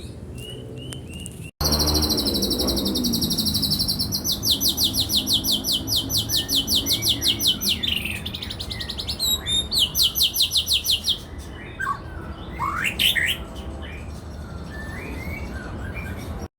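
White-rumped shama (murai batu) singing: a few soft chirps, then after a brief break a loud, high, rapid trill held for a couple of seconds, followed by pulsed trill phrases of about seven notes a second, and scattered short chirps and whistles near the end. The trills are part of the mimicry that the bird is shown for, canary-like song among it.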